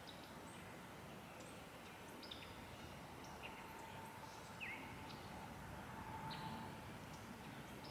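Faint outdoor ambience with wild birds chirping on and off: short, high calls, each dropping quickly in pitch, about one a second.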